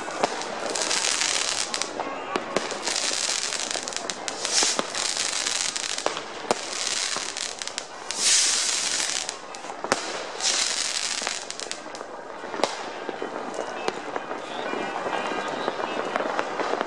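Many fireworks and firecrackers going off at once: a steady crackle studded with sharp bangs, with a hissing burst every second or two.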